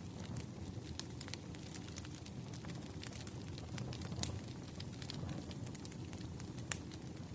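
Wood fire crackling: a steady stream of small pops and snaps over a low rumble, with a sharper pop near the end.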